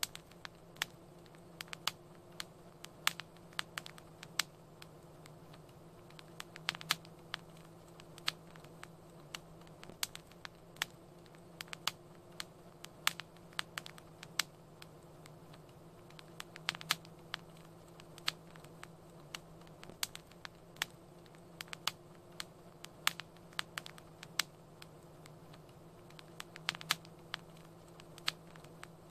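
Wood fire crackling, with irregular sharp pops and snaps, several a second, over a low steady hum.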